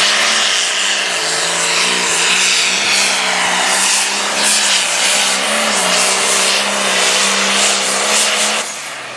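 Turbocharged diesel pulling tractor running at full throttle under load down the pull track. The engine note holds high and steady with small dips in pitch, over a loud high hiss, then drops away suddenly near the end as the throttle comes off.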